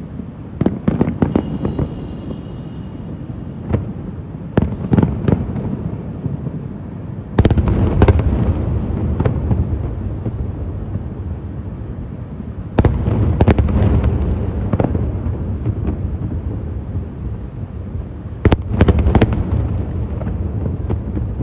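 Aerial fireworks shells bursting in clusters of sharp cracks and booms, with three heavier volleys at about a third of the way in, two thirds of the way in and near the end, and a low rumble carrying on between the bursts.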